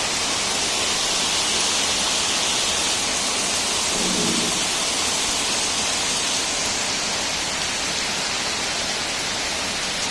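Heavy rain pouring down steadily, a dense even hiss. A brief low sound rises under it about four seconds in.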